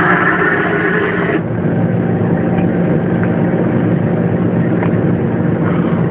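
Diesel locomotive engine running steadily, heard from inside the cab as a constant low drone. A hiss lies over it at first and stops about a second and a half in.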